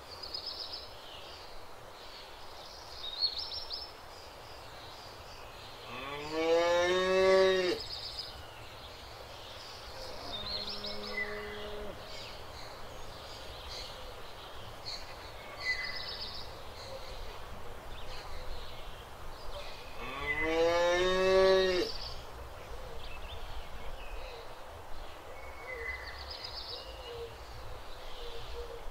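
Cows mooing: two long, loud moos, about six seconds in and again about twenty seconds in, each rising in pitch at its start, with a quieter, shorter moo in between.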